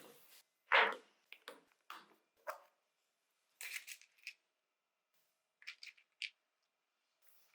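A series of short clicks and light scrapes from small metal and plastic parts of a die-cast model car being handled and worked with hand tools. The loudest is about a second in, more follow every half second or so, and there are three sharp clicks near the end.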